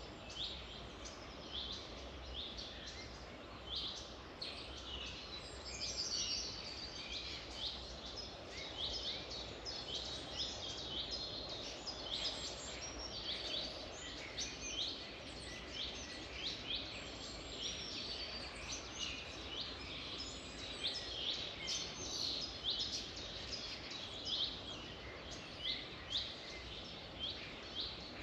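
Wild birds chirping in a dense, continuous chorus of many short, high calls overlapping one another, over a faint steady low rumble.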